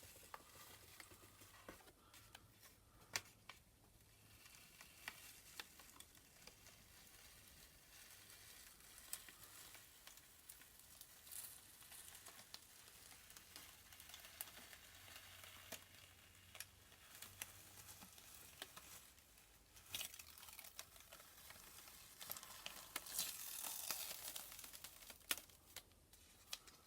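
Masking tape and dried masking fluid being peeled off a painted canvas: faint crinkling and tearing with scattered small ticks, a little louder near the end.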